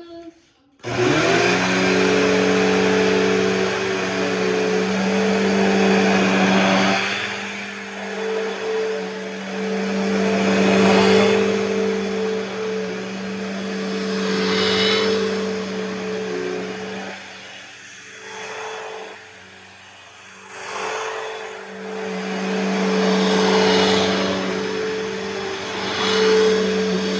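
Bissell PowerTrack Revolution upright vacuum cleaner switched on about a second in, then running with a steady motor hum and whine. Its loudness swells and dips repeatedly.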